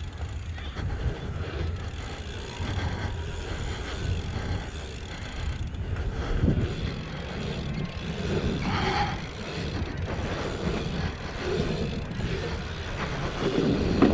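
Wind rushing over a helmet-mounted action camera's microphone while riding a BMX bike, mixed with the bike's rolling and rattling over the track.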